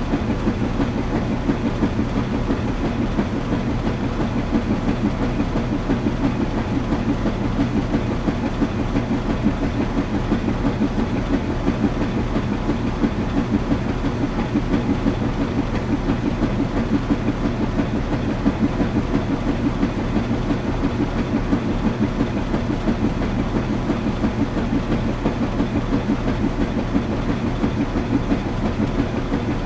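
Washing machine running steadily: a low hum with a fast, even rumble that does not change.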